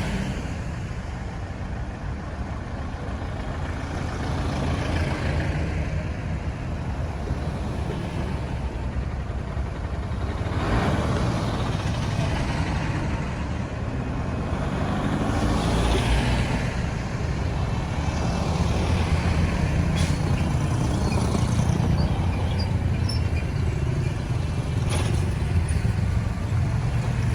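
Road traffic: a steady rumble of engines and tyres, swelling every few seconds as vehicles pass, with a few sharp clicks in the second half.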